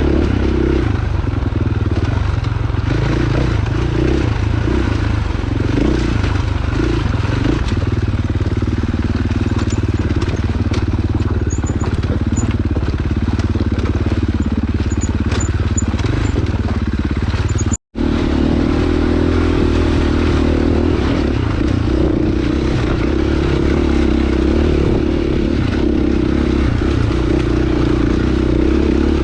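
Dirt bike engine running steadily as the bike is ridden along a trail, with rattling and scraping noise from the ride over it. The sound cuts out for an instant about 18 seconds in.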